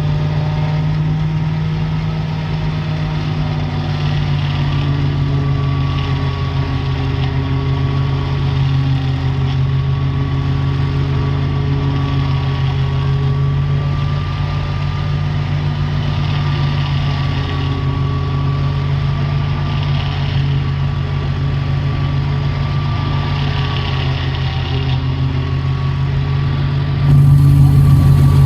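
Ghazi tractor engine running steadily while driving a silage machine, a low engine hum with a thin wavering whine above it and faint swells about every four seconds. The sound gets suddenly louder a little over a second before the end.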